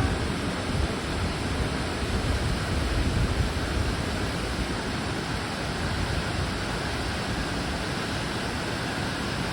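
Rushing water, a steady full hiss, with some low buffeting in the first few seconds that eases off after about four seconds.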